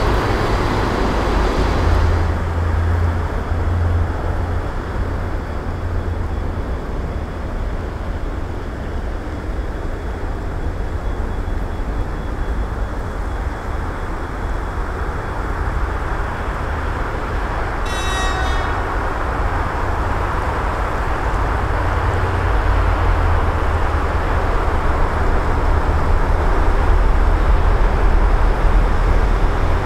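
Approaching electric locomotive-hauled passenger train: a steady low rumble that grows louder toward the end, with one short horn blast about two-thirds of the way through.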